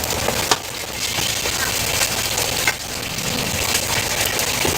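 Food sizzling on a hot cooking surface, a steady hiss, with two sharp knocks about half a second and nearly three seconds in.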